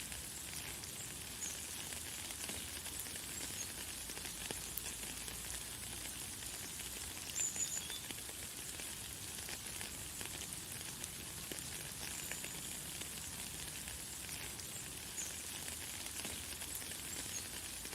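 Light, fine rain falling: a steady high hiss full of tiny drop ticks. A few short, faint high bird chirps come through now and then, the clearest about halfway through.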